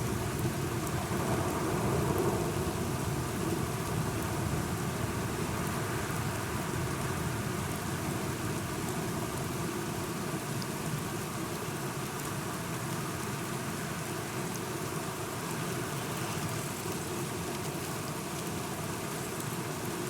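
Steady rain falling, with scattered drops ticking, under a low rumble of thunder that is strongest in the first couple of seconds and slowly eases.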